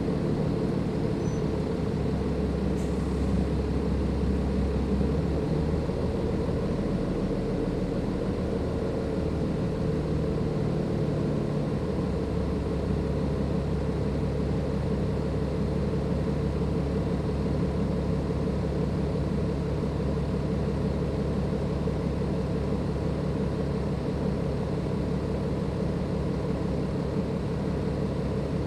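Cummins ISLe 340B inline-six diesel engine of a Dennis Enviro 500 double-decker bus running under way, with its turbocharger loud. The engine note changes about 12 seconds in.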